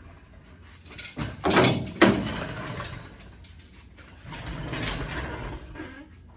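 Work noises from handling parts: a few knocks, then a loud scraping clatter that ends in a sharp bang about two seconds in, and a longer, duller scraping noise later on.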